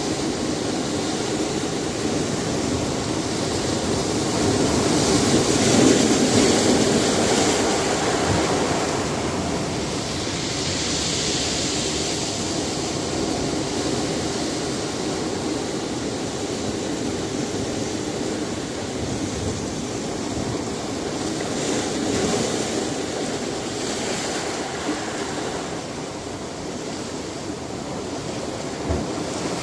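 Sea surf breaking on a rocky shore: a continuous wash of waves, swelling loudest about six seconds in and again around twenty-two seconds.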